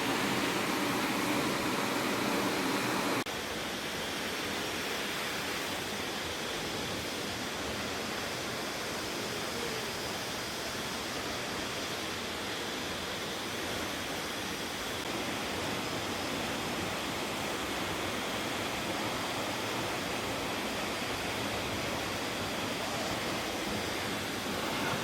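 Steady rushing of a waterfall. About three seconds in, it drops abruptly to a slightly quieter, steady rush where the footage cuts.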